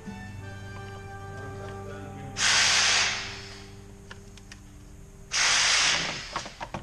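Two short hissing blasts from a pressurised nozzle, each under a second long, with a few light clicks near the end.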